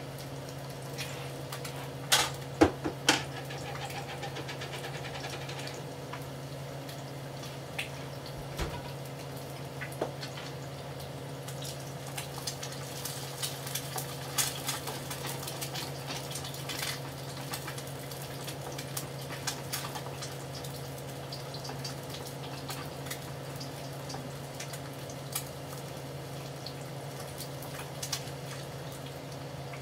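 Frying egg and bacon grease sizzling in skillets, with scattered crackles and pops over a steady low hum. A spatula knocks against the pan a few times about two to three seconds in.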